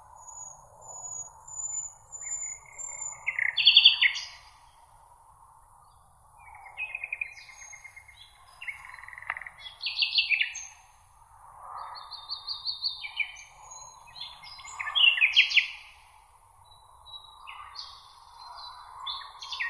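Several songbirds singing in turn, in short phrases of quick repeated notes and trills, over a steady high hiss; the loudest phrase comes about four seconds in.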